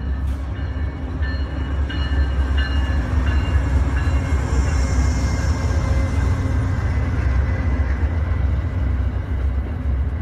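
O-scale model train running, a steady low rumble with locomotive sound effects from its onboard sound system.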